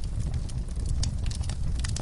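Wood fire burning in a fireplace, crackling with many quick irregular pops and snaps over a steady low rumble of the flames.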